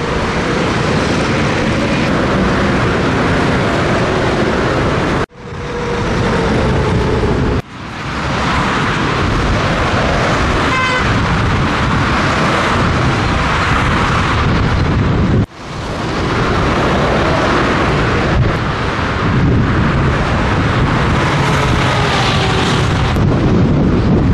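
Scania truck on the move, heard as a loud, steady rush of wind and road noise with faint engine tones underneath. The sound cuts out abruptly three times and returns within about a second each time.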